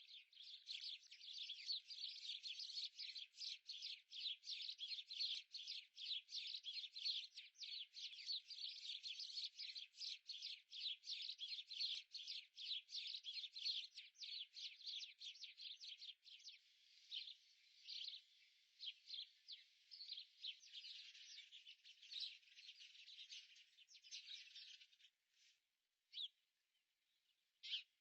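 A flock of small birds chirping and twittering rapidly and continuously. The chirps thin out in the second half and mostly stop near the end, leaving a few lone chirps.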